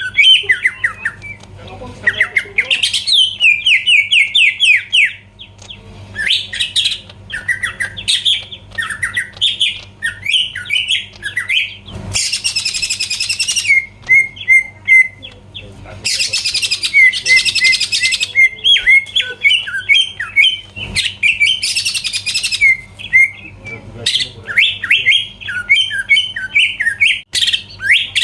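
Cucak ijo (green leafbird) singing a fast, loud, varied song of quick downward-sliding whistles, broken several times by harsh rasping bursts lasting a second or two each.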